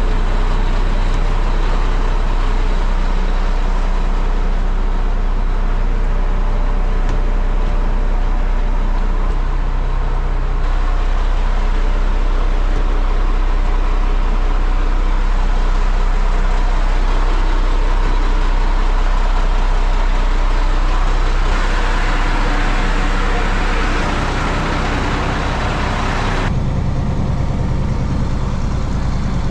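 Heavy vehicle engine running steadily under load. The sound shifts abruptly three times.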